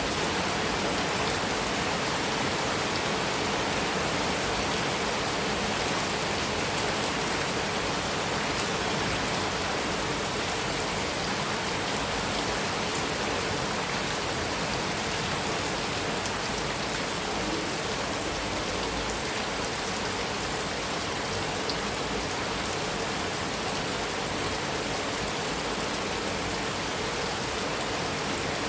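Heavy rain falling steadily on a metal roof, a dense, even patter with no thunder.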